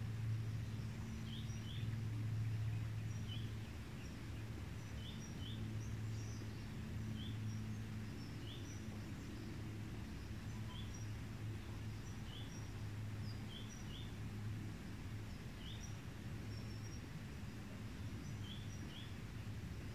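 Birds chirping outdoors: short, high chirps about every second or so, over a steady low hum that is stronger in the first half.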